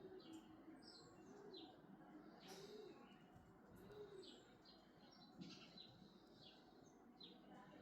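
Faint outdoor birdsong: small birds chirping in short high notes, with a low arched call, like a dove cooing, repeating about once a second.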